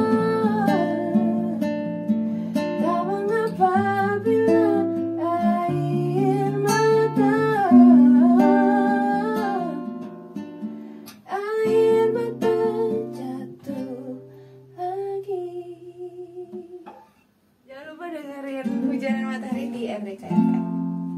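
Song with acoustic guitar and a solo voice singing the melody over strummed and plucked chords. The singing thins out in the second half, the music drops out briefly about three-quarters of the way through, and then guitar chords ring near the end.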